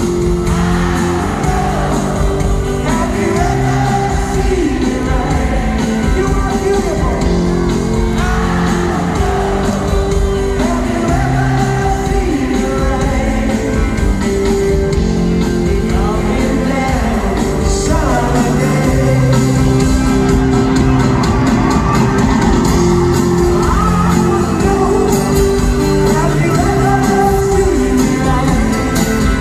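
Live rock band playing with a lead voice singing, heard from the audience in a large arena, so the sound is loud and roomy.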